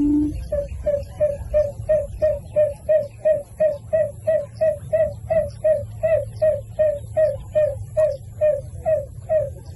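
A bird calling in a long, even series of short hooting notes, about three a second, each slurring slightly down in pitch. There is low rumbling noise underneath.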